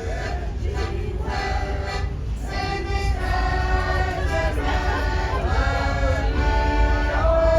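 Voices singing with music over a steady low rumble.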